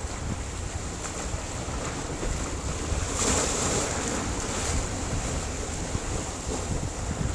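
Sea surf on a rocky shore: a steady wash of waves, with one wave breaking and hissing louder about three seconds in. Low wind rumble on the microphone runs underneath.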